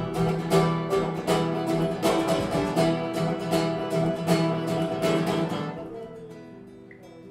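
Live music: acoustic guitar strummed in a steady rhythm, dying away about six seconds in to a soft, held passage.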